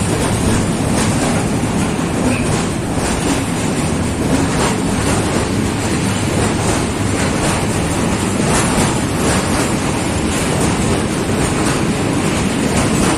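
A train rolling past at close range: a steady, loud rumble of wheels on rail, with the wagons' wheels clacking repeatedly over rail joints.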